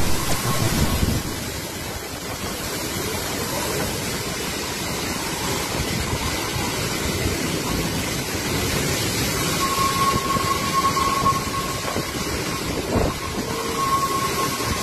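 Storm wind and heavy rain making a steady rushing noise that swells in gusts, with a louder burst right at the start. A faint high steady tone sounds twice in the second half.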